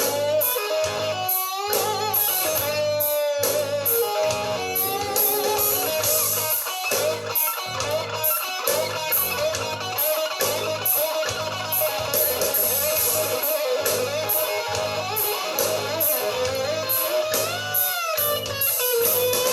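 Hard rock instrumental break: an electric guitar lead with string bends and wavering vibrato over a steady drum beat and bass.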